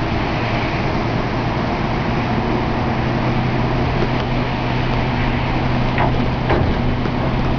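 A motor vehicle's engine running steadily: a constant low hum under a steady hiss, with two short sharp sounds near the end.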